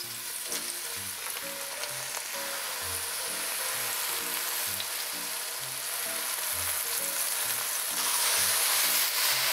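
Shimeji and maitake mushrooms sizzling in olive oil in a pot, stirred with a spatula. The sizzle grows steadily louder and is strongest near the end.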